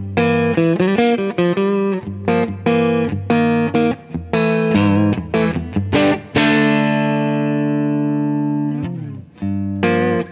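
Electric guitar played through a Poly Verbs reverb pedal: a run of quick picked notes and chords, then a chord struck about six seconds in and left ringing for over two seconds before it is cut off, then a few more notes near the end.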